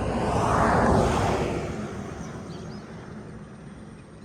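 A road vehicle passing by at speed: its noise swells to a peak about a second in, then fades away.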